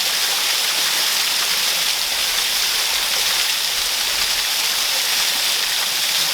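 Waterfall pouring steadily: a constant hiss and rush of falling water.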